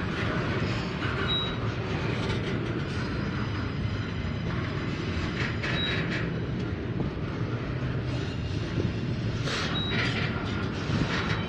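Double-stack container freight cars rolling past on the rails: a steady low rumble of wheels on track. Short high wheel squeals come about 1, 6 and 10 seconds in, with a brief burst of screeching near the end.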